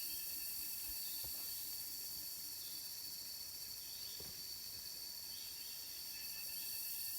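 Steady high-pitched insect drone with a hiss, with faint short chirps repeating about once a second and a couple of soft knocks.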